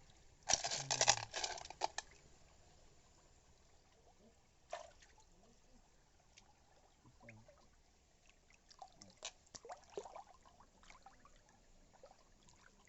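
Wet slurping and sucking as tutut (rice-field snails) are eaten from their shells. There is a loud slurp about half a second in, then quieter scattered clicks and small wet sounds.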